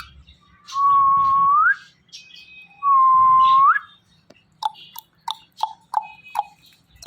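Indian ringneck parrot whistling twice, each whistle held on one note about a second and sliding up at the end, then a quick run of about six short chirps.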